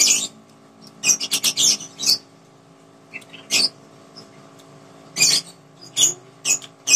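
Close-miked chewing of crunchy raw fruit: irregular crisp crunches, a quick run of them about a second in, then single crunches every second or so.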